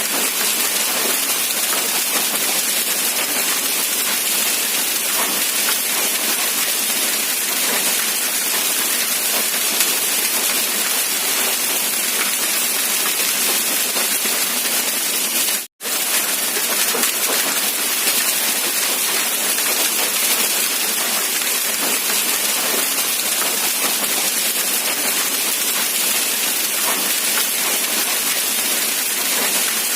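Steady rain falling, an even hiss with no other sounds. It cuts out to silence for an instant about halfway through, then resumes.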